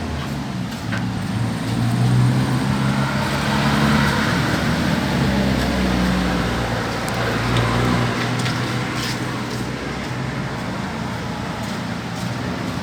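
A steady low motor rumble and hum, a little louder in the middle, with a few faint clicks.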